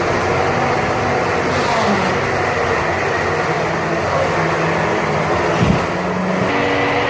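Heavy machine's engine running steadily under load, with a short thud about five and a half seconds in.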